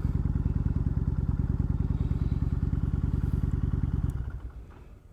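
Motorcycle engine running with a steady, even pulsing beat, then switched off about four seconds in, dying away quickly as the rider arrives and parks.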